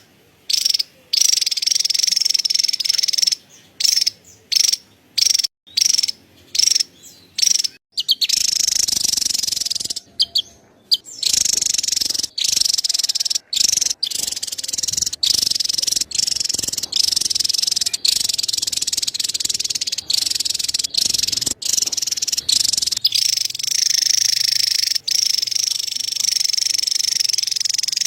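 Javan tesia giving its rapid, high-pitched chattering call, in short stuttering bursts for the first several seconds, then almost without a break.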